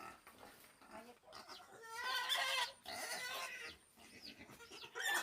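Pig squealing and grunting, loudest about two seconds in, followed near the end by a string of short, high chirps.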